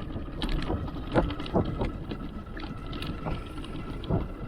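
Wind rumbling on the microphone of a bicycle rolling downhill, with scattered knocks and rattles from the bike over the lane.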